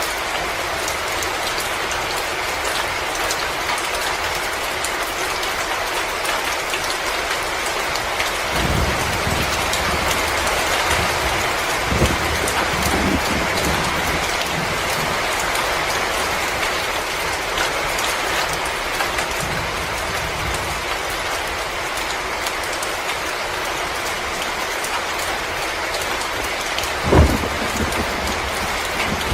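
Wood fire burning in a fireplace: a steady hiss with dense fine crackling, a few low thumps, and one louder pop near the end.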